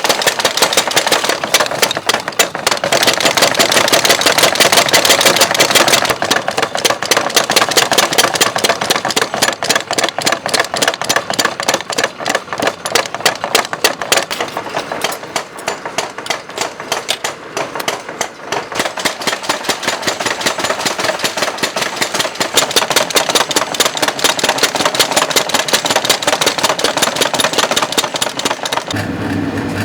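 Mechanical power hammer pounding hot steel in fast, continuous blows, many strokes a second. Near the end the hammering gives way to a steady low hum.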